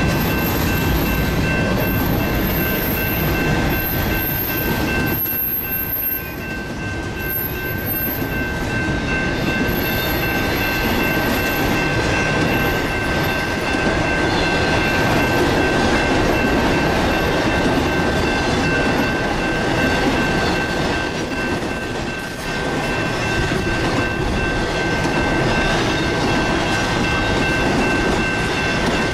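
Freight train cars rolling past on the rails: a steady loud rumble with a thin, steady high whine over it. It eases off briefly twice, about five seconds in and again near twenty-two seconds.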